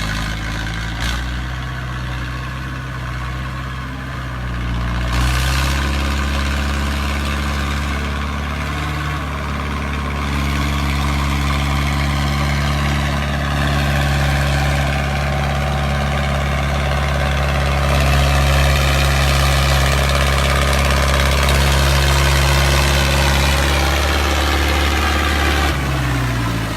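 Diesel tractor engine running under load pulling a trolley; it revs up about five seconds in, holds a steady pitch, and eases back down near the end.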